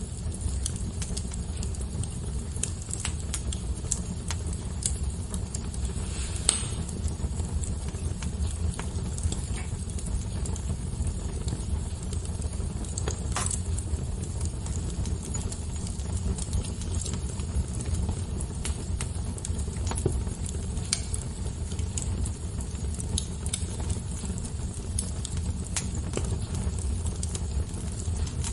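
Fire crackling: scattered sharp pops and snaps over a steady low rumble, with a few louder pops about six, thirteen and twenty seconds in.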